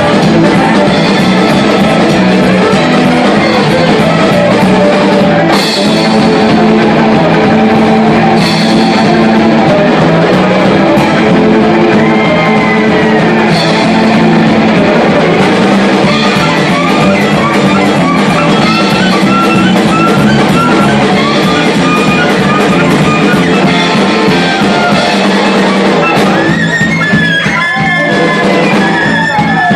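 Live acoustic band playing a fast Gypsy-style instrumental passage: drum kit, plucked strings and upright bass under a lead line of quick notes that slide up and down in pitch in the second half.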